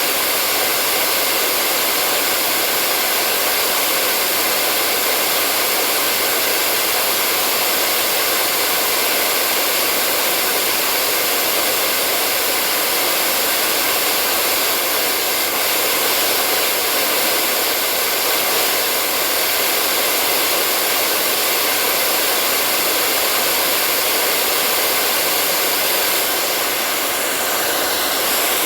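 Hair dryer blowing continuously: a steady rushing whoosh, mostly high in pitch and even in level throughout.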